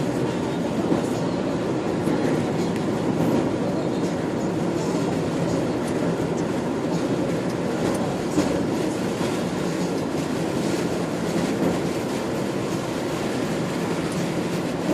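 Steady rumble of a truck on the move, heard from inside the cab: road and engine noise with a few faint knocks.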